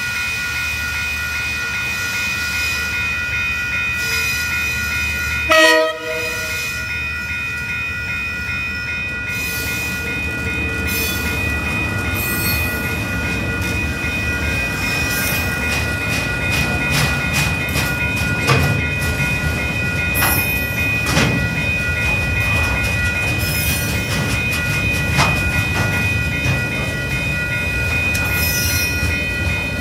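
A level-crossing alarm rings steadily throughout. About six seconds in, a short, loud horn blast sounds from KiwiRail DL class diesel-electric locomotives. The locomotives then run past, followed by freight wagons whose wheels click over the rail joints.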